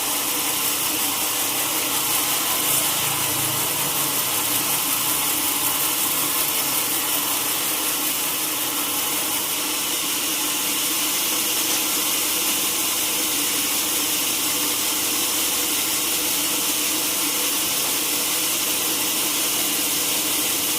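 Sawmill saw running through timber: a steady, unbroken high hiss with a hum underneath.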